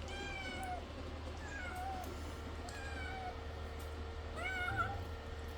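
Domestic cat meowing four times, short calls that each bend slightly in pitch.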